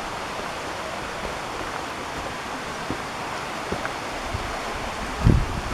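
Steady rush of a waterfall's falling water, with a few low thumps near the end.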